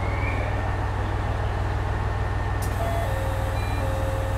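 KiHa 126 series diesel railcar's engine running with a steady low hum, heard from inside the car.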